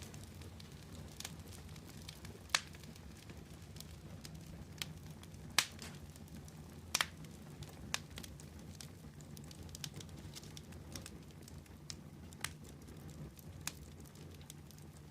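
Wood fire burning with a low steady rumble and scattered sharp crackles and pops, the loudest a few seconds in and again around the middle.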